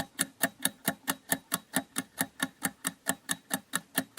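Countdown-timer ticking sound effect: fast, even clock-like ticks, about five or six a second.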